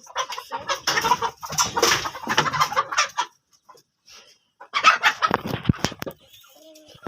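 Chickens clucking in two spells: for the first three seconds, then again about five seconds in after a short quiet gap.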